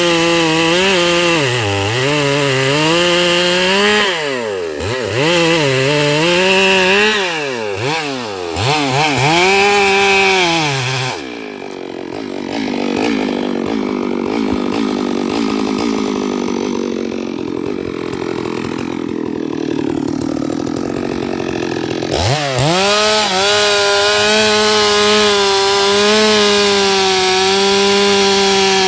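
Stihl MS 382 two-stroke chainsaw ripping eucalyptus logs lengthwise, the engine pitch dipping and recovering again and again as the chain bogs under load. About eleven seconds in it drops back to a quieter, rougher run for about ten seconds, then revs up to a steady high pitch.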